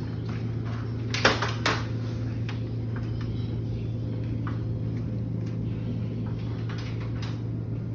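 A few sharp knocks and clatter about a second in, then fainter scattered clicks, over a steady low mechanical hum.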